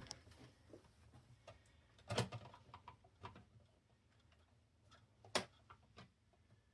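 Light clicks and taps of CD changer parts being handled and fitted during reassembly, with two sharper clicks about two seconds in and about five seconds in.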